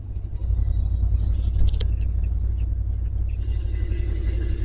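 Ford 390 cubic-inch FE V8 of a 1974 Ford F-350 running steadily with a low, even rumble, moments after a cold start on a cold morning.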